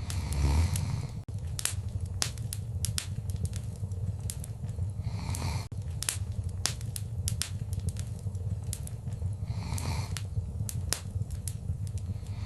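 Wood fire crackling, with many sharp pops and snaps over a steady low rumble. A brief soft swell of noise comes back about every five seconds.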